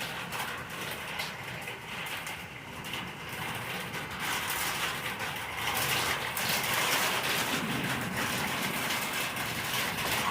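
Thunderstorm rain falling steadily, with a low rumble, growing louder about halfway through.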